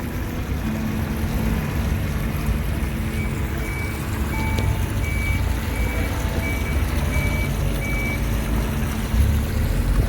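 A vehicle's reversing alarm beeping, a row of about eight short, evenly spaced high beeps a little over half a second apart that starts about three seconds in and stops about eight seconds in, over a steady low rumble.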